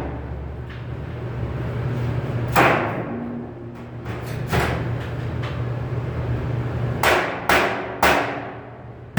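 Hammer blows on sheet metal: a sharp ringing strike, a lighter one, then three quick strikes about half a second apart near the end, over a steady low hum.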